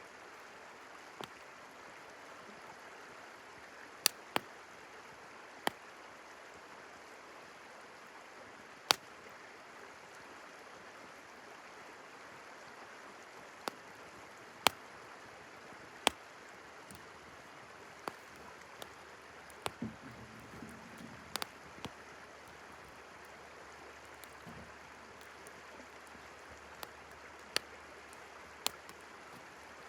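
Campfire crackling, with sharp pops at irregular intervals, over the steady rush of a flowing river.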